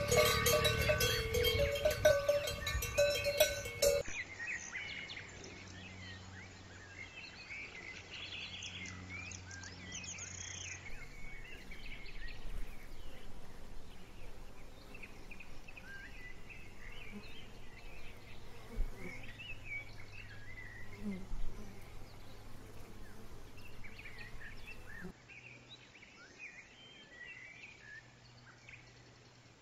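A cow's neck bell clanking with repeated strikes, which stops abruptly about four seconds in. After that, quiet pasture ambience with faint bird chirps and a low hum.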